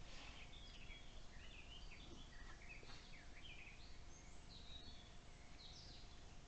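Faint songbird singing in the forest: a string of short chirping, warbling phrases that rise and fall, over a steady low hiss and a faint steady hum.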